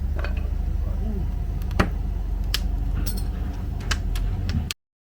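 Scattered light metallic clicks and knocks over a steady low rumble, the sharpest knock about two seconds in; the sound cuts off abruptly near the end.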